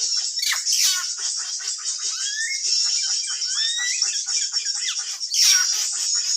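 Birds calling: a dense, fast run of high chirps, about eight to ten a second, with several rising whistled notes a couple of seconds in and a louder sharp call near the start and again near the end.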